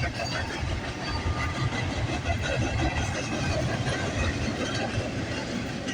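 Cars of a Canadian Pacific freight train, mostly container cars, rolling past at steady speed: a continuous low rumble of steel wheels on rail with faint irregular clatter.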